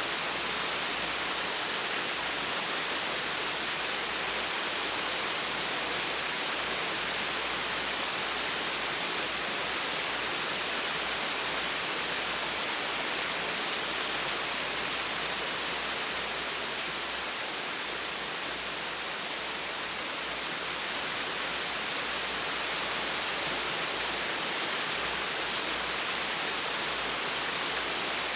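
Small waterfall splashing steadily, a continuous even rush of falling water.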